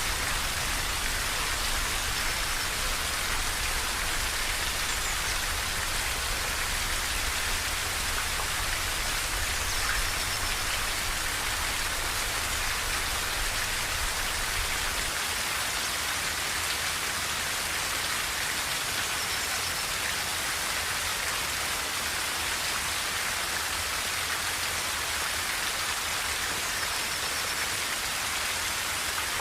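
Steady rain falling on a tin roof, an even hiss of dense drops. A low rumble underneath fades out about halfway through.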